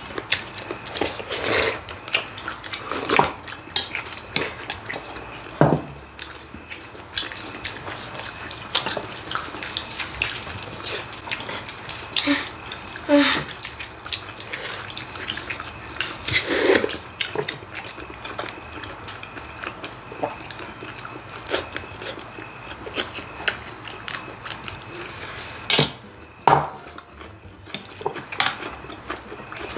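Irregular clicks of chopsticks against metal plates and ceramic bowls, with the chewing and slurping of people eating noodles and side dishes.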